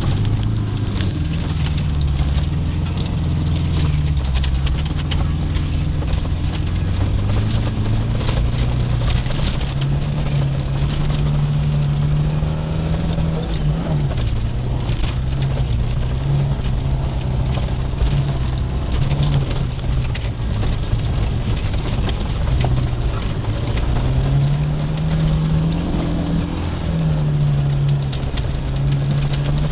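VAZ 2108 (Lada Samara) four-cylinder petrol engine driven hard, its pitch rising and falling repeatedly through acceleration and gear changes. A constant rush of noise from the tyres on the snowy track runs under it.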